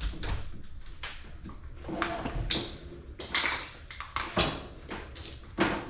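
Metal milking machine units knocking and clanking against each other as they are carried: a series of irregular knocks, a few with a short metallic ring.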